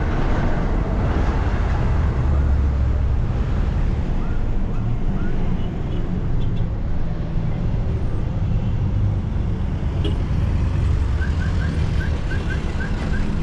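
Minibus engine running under way with steady road and traffic noise, a heavy low rumble throughout. Near the end a quick run of short high chirps comes in, about three a second.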